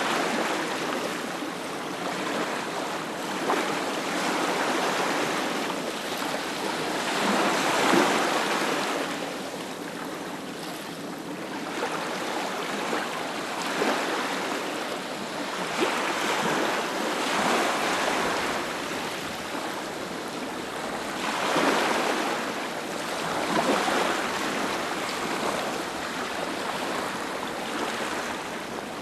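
Sea waves breaking on a beach, the surf swelling and easing every few seconds.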